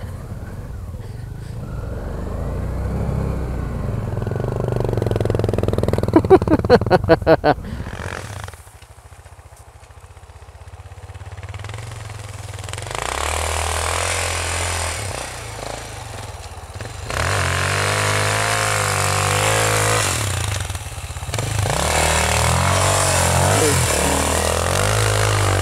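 Dual-sport motorcycle engine running and revving up and down as it is ridden in snow. About six seconds in there is a quick run of sharp, loud pulses.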